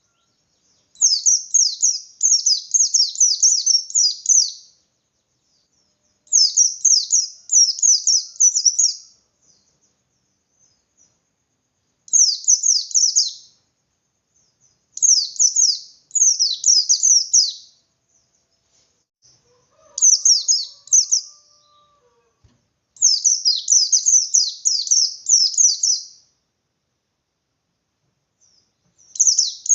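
Pleci bustomi white-eye singing its 'ngalas' song: bursts of rapid, high, downslurred chirping notes, each a second to three seconds long, repeated after short pauses. It is the agitated, full-voiced song that sets other white-eyes answering and singing harder.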